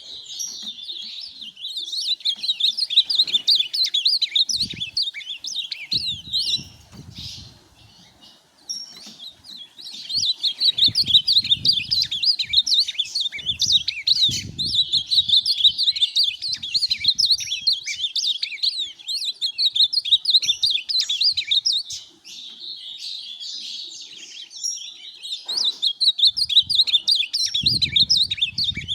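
Ultramarine grosbeak (azulão) singing long runs of rapid warbling notes, broken by a short pause about seven seconds in and a brief dip a little past twenty seconds.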